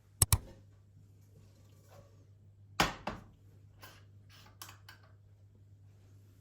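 A few sharp clicks and clatters of objects being handled, the loudest a double knock about three seconds in, over a steady low hum.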